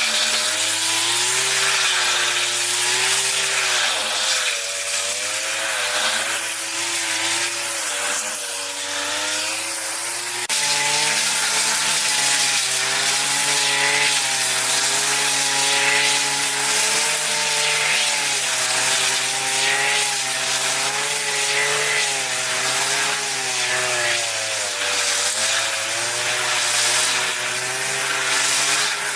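A power saw cutting wood, its motor note dipping and rising as it takes the load, over the hiss of the cut.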